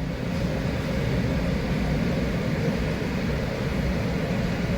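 Steady hum and hiss of tunnel car-wash machinery, heard from inside a car at the tunnel entrance, rising a little in the first second and then holding even.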